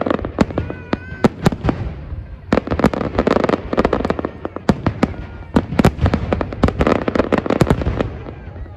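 Fireworks display: a rapid series of sharp bangs from bursting shells over continuous crackling, heaviest at the start and again in the middle.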